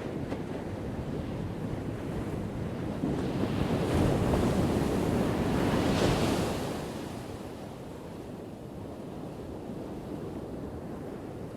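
Ocean waves crashing on a shore: the surf builds to its loudest about halfway through, then washes back and eases off.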